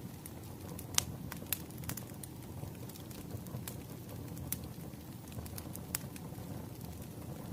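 Wood fire crackling: irregular sharp pops and snaps over a steady low rumble of burning, with the loudest pops about a second in and near six seconds.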